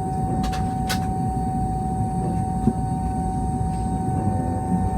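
Steady cabin noise of a Boeing 717-200 at the gate before engine start: the rush of air-conditioning and a steady whine, typical of the tail-mounted auxiliary power unit running. Two sharp clicks about half a second and one second in.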